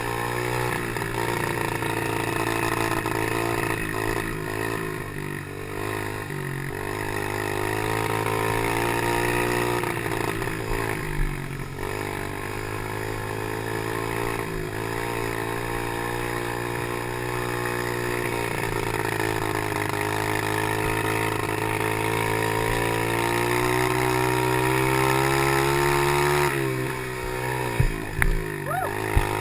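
Chinese PY90 pit bike's small engine running under load, its pitch rising and falling as the rider opens and closes the throttle and changes gear. Near the end the engine note drops, and a few sharp knocks are heard.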